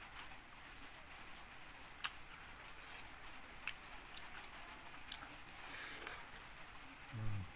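Faint eating sounds: a few soft, scattered mouth clicks and smacks from chewing, over a steady hiss. Near the end comes a brief low hum or grunt from the eater.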